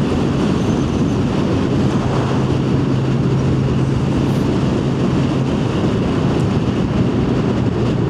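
Yamaha FZ1 motorcycle's inline-four engine running at a steady cruise, a constant low hum under a heavy, even rush of wind and road noise.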